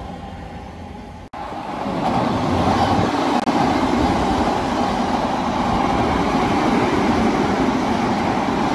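Odakyu Line commuter train running along the track through the station: a steady rumble of wheels on rail that swells about two seconds in and then holds.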